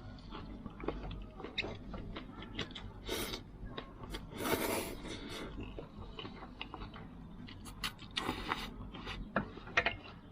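A person eating mixed noodles: chewing with many small clicks, and three longer slurps about three, four and a half and eight and a half seconds in.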